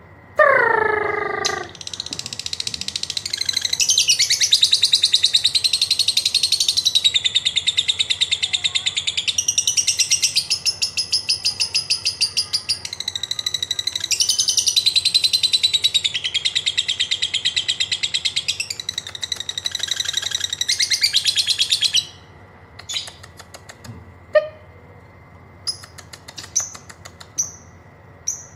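Lovebird calling: a short falling call, then a long, rapid, high-pitched chattering trill (ngekek) lasting about twenty seconds. It breaks off suddenly near the end into scattered short, sharp ticking chirps (ngetik).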